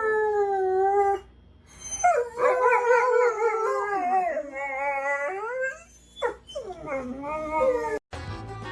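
Dog howling: three long drawn-out howls, the middle one the longest and wavering in pitch, the last sliding down.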